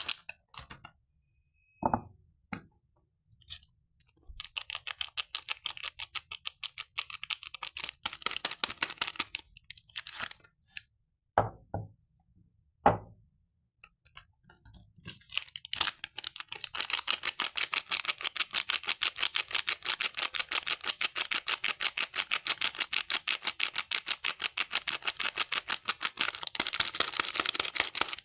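Rapid, crisp ticking from hands working a soap bar and its packaging, in runs of fast even ticks. The runs are broken by short pauses and a few single louder knocks, and the longest run goes from about fifteen seconds in to the end.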